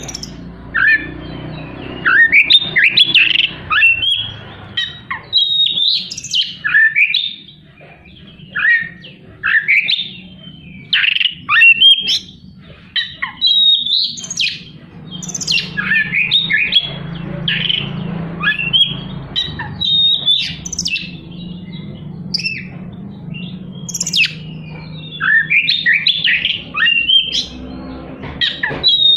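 Oriental magpie-robin (kacer) singing: loud clusters of quick, harsh whistles and chattering phrases, with short pauses between the clusters.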